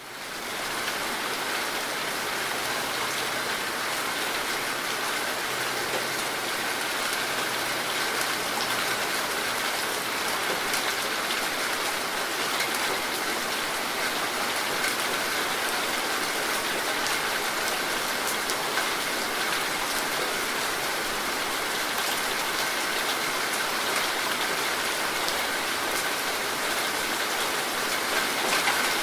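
Steady rain falling, an even hiss of drops that fades in over the first second and then holds constant.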